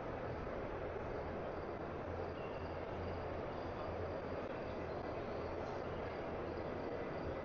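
Steady background noise of a large exhibition hall, an even hiss with a low hum underneath and no single sound standing out.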